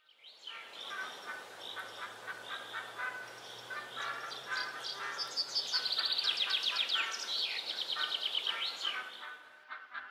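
Small birds chirping and singing in a chorus of short repeated notes, with fast trills in the middle; it fades in at the start and fades out near the end.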